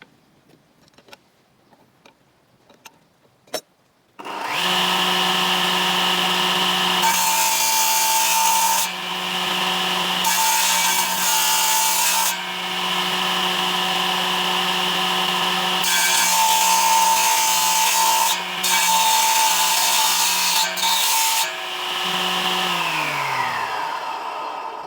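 A few light taps, then an electric power tool motor starts about four seconds in and runs at a steady pitch. It cuts into wood in three louder passes, each adding a rough noise over the motor hum. Near the end the tool is switched off and winds down, its pitch falling.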